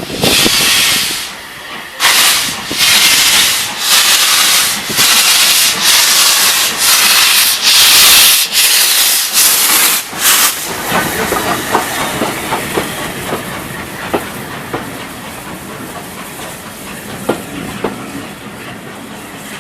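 LMS Jubilee Class 4-6-0 steam locomotive working steam: a run of loud, hissing chuffs about every two-thirds of a second. About ten seconds in they die away to a quieter rumble with light clicking of wheels on the rails.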